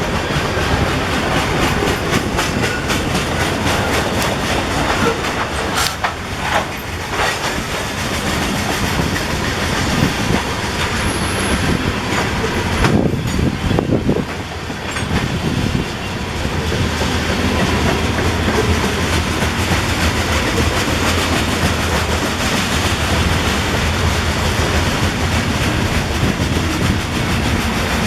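Freight cars of a CSX manifest train rolling past, steel wheels clicking rhythmically over rail joints under a steady roar of running gear, with a few louder knocks about a quarter and halfway through.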